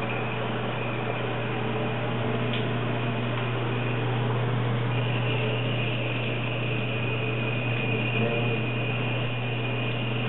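Bathroom faucet and shower running hot at the same time: a steady rush of water over a low steady hum, with a thin high tone that grows stronger about halfway through.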